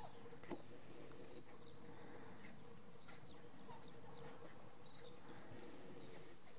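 Faint outdoor ambience with scattered short, high bird chirps over a steady low hum, and a single sharp click about half a second in.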